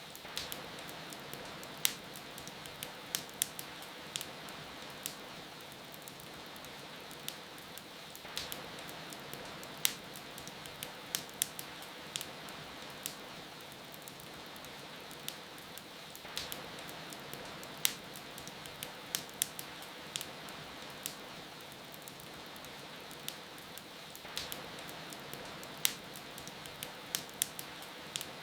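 Steady rain with a wood fire crackling over it: irregular sharp pops and snaps, several a second at times, some much louder than the rest.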